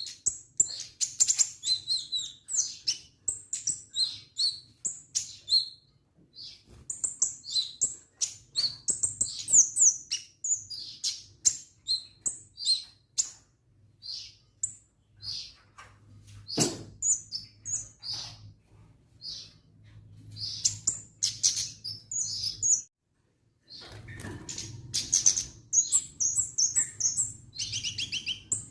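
A kemade songbird singing vigorously in quick bursts of high chirps and trills, with a break of about a second roughly three quarters of the way through.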